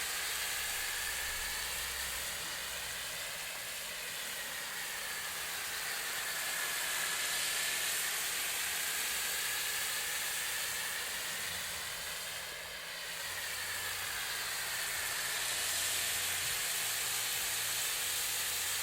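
Pressure-washer foam cannon spraying snow foam: a steady hiss of spray with a faint tone that slowly wavers up and down.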